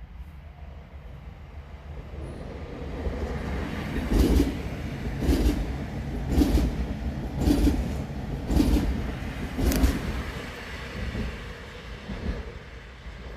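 A train passing: its rumble builds, then a run of heavy, evenly spaced wheel knocks over a rail joint, about one a second, before the sound fades.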